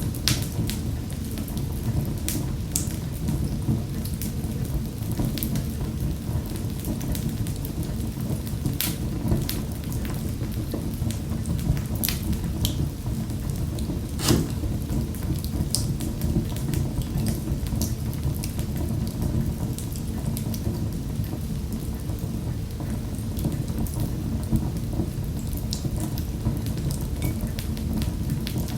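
Wood fire burning in a fireplace: a steady low roar of flames with irregular crackles and snaps. The sharpest pop comes about halfway through.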